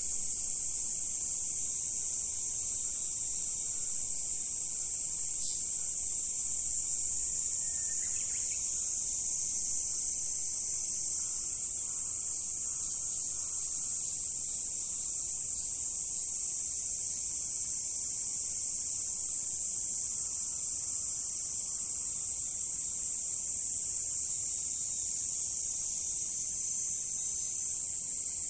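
Steady, high-pitched chorus of insects calling without a break, with a faint short call about eight seconds in.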